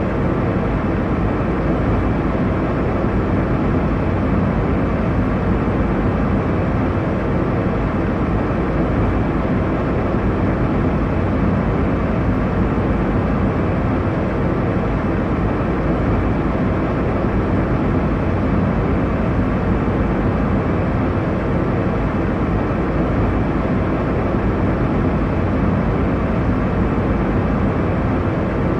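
Airliner cabin noise in cruise: a steady, deep rushing of air and engines, strongest in the low range, with a faint steady hum and no changes.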